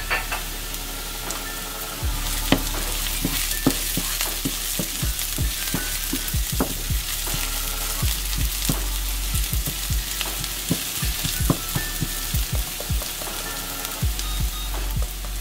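Chopped onion and garlic sizzling as they fry in a pan, with a steady hiss and many irregular taps and scrapes of a utensil against the pan as they are stirred.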